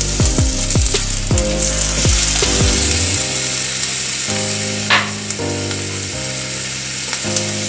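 Sliced cabbage, peppers and onion stir-frying in hot oil and soy sauce in a frying pan, a steady sizzle as they are turned with a wooden spatula, with one sharp tap of the spatula about five seconds in. Background music plays underneath.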